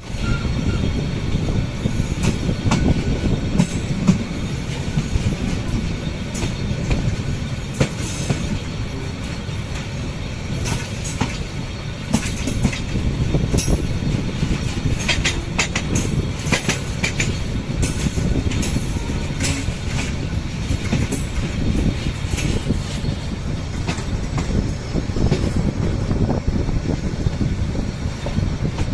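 Passenger train running along the track, heard from on board: a steady low rumble of wheels and carriages, broken by irregular sharp clicks and knocks as the wheels pass over rail joints.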